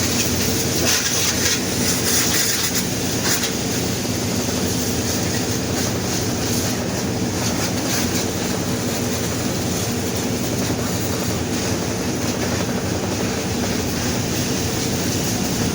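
Car wash machinery running over the car: a steady rumble and spray of water with a faint hum underneath, and a few brief sharper swishes in the first few seconds.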